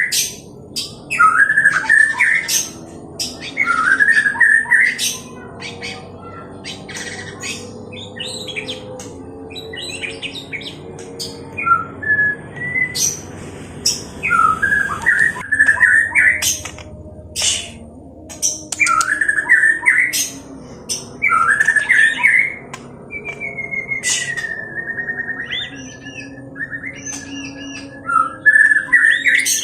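White-rumped shama (murai batu) singing in aggressive 'fighting' mode: loud bursts of harsh, chattering phrases with sharp clicks, broken by short pauses, and a long trilled note about three-quarters of the way through.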